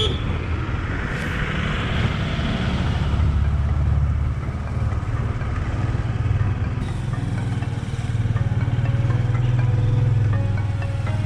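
Hero Glamour 125 cc single-cylinder motorcycle engine running steadily while under way, heard from on board with wind and road noise.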